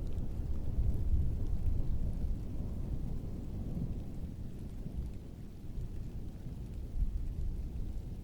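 Heavy rain with distant thunder rolling: a deep rumble that is loudest in the first couple of seconds and then slowly fades.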